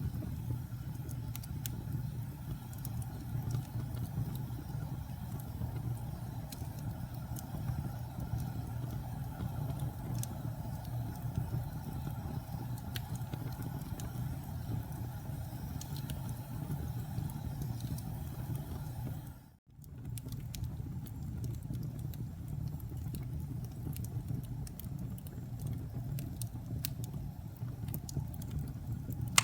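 Campfire burning, with a steady low rumble and scattered sharp crackles and pops from the burning wood. The sound cuts out for a moment about twenty seconds in, then picks up again.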